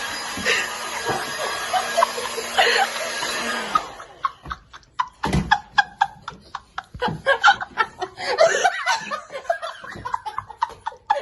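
Hair dryer, set on medium and loaded with powder, running steadily, then switched off about four seconds in. Laughter in short sharp bursts follows.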